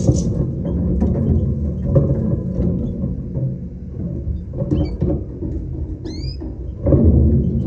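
Short high chirps from small cage birds, a few scattered calls with a clear rising-and-falling chirp about six seconds in, over a continuous low rumble.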